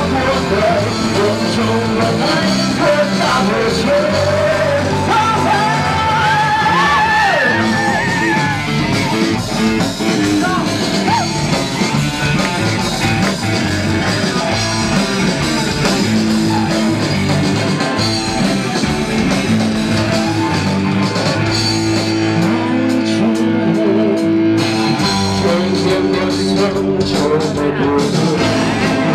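A rock band playing a song, with a singer's voice over guitar.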